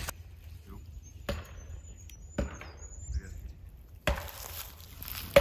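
A few sharp knocks, like wood or hard objects being struck, with a louder hit near the end.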